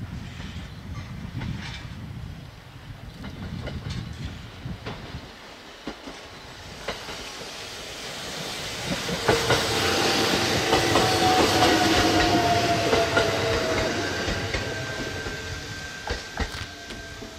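Shinano Railway SR1 series electric train arriving and passing close at low speed. A low rumble grows into a louder rush of wheels and running gear, with wheels clicking over rail joints and a few thin whining tones, one slowly falling in pitch as the train slows.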